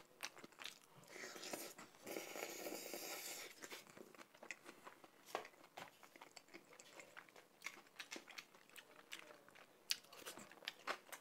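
Quiet, close-miked chewing of a mouthful of jjajangmyeon noodles with wet mouth clicks, and a denser noisy stretch of eating sounds about two seconds in. Near the end, a bite into a piece of pickled yellow radish (danmuji).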